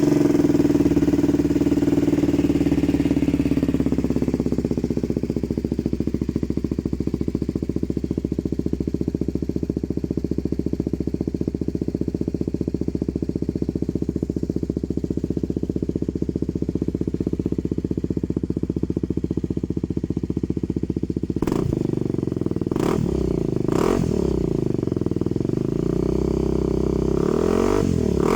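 BMW G310GS single-cylinder engine running through an aftermarket Yoshimura-style slip-on exhaust, just after a start: a fast idle for the first few seconds, then a steady idle. About three-quarters of the way through, the throttle is blipped several times, with a few sharp clicks among the revs.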